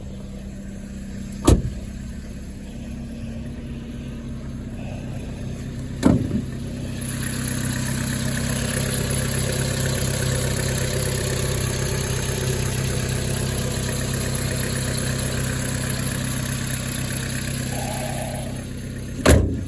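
Vauxhall Astra engine idling steadily in the frosty morning cold after a cold start. Two sharp knocks come in the first six seconds. The engine is then heard louder and brighter for about ten seconds with the bonnet up, and a loud slam comes near the end.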